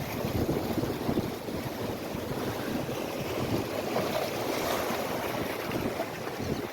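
Wind buffeting the microphone over the wash of water, with a boat's motor running on the inlet.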